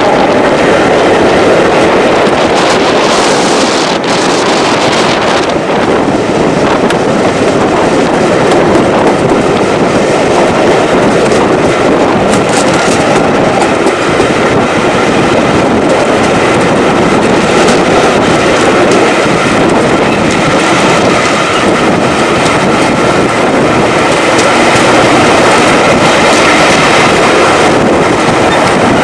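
Train running along the track: a loud, steady rumble and rattle of wheels on rails that continues without a break, with a faint high steady tone in the second half.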